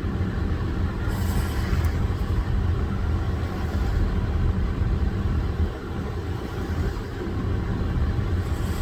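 Steady low vehicle rumble, with a short hiss about a second in.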